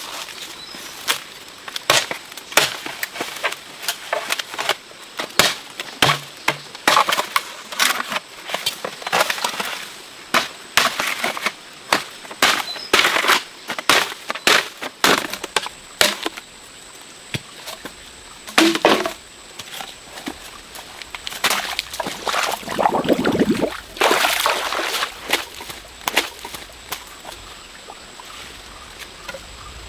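Irregular sharp knocks and cracks, often several a second, with a few longer scraping or rustling stretches in between.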